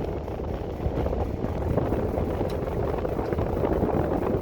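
A 1960s Knapp & Monarch 10-inch table fan running steadily on high speed: a motor hum and rushing air, with a dense rattle that the owner puts down to the fan rattling through its cables.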